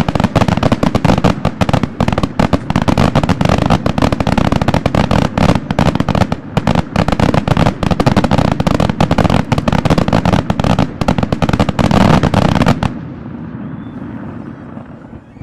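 Fireworks display barrage: a dense, rapid salvo of overlapping bangs from aerial shells going off low over the water. About thirteen seconds in it stops abruptly and only a much fainter background is left.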